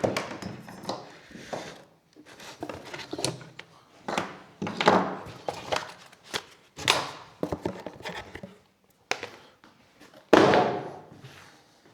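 A cardboard box and its packaging being handled and unpacked: scattered rustles and knocks, with one loud thunk about ten seconds in.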